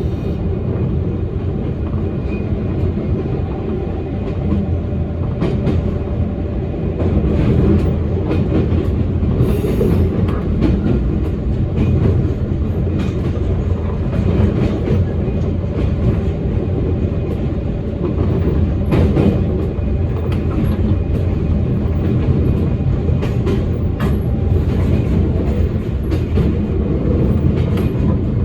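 Toyama Chihō Railway electric train running along the line, heard from inside the leading car: a steady rumble of wheels on rail with repeated clicks and knocks from rail joints, a little louder from about seven seconds in.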